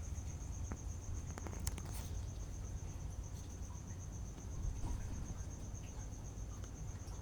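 Crickets chirping: a steady, rapidly pulsing high trill, over a low background rumble with a few faint clicks.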